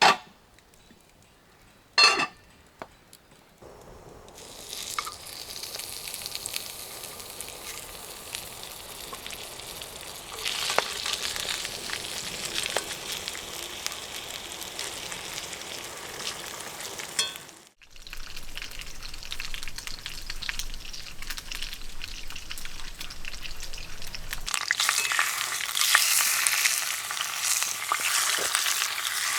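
Food frying in a hot pan, sizzling and spitting, growing louder in steps with a short break about two-thirds through. Two sharp clicks come before the sizzling starts.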